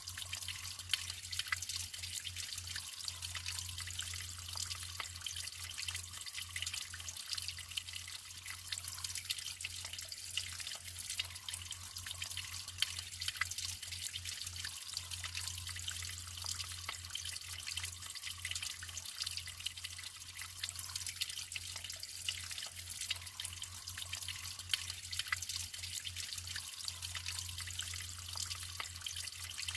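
Natural flowing water trickling and dripping, a steady hiss full of small irregular splashes and drips.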